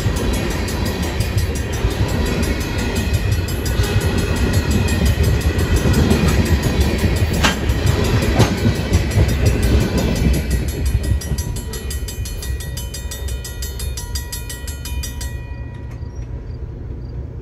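Freight cars rolling past over a grade crossing, a heavy rumble with clanking and wheels clicking over the rail joints. A crossing signal bell rings steadily throughout. The rumble fades as the end of the train passes, leaving the bell.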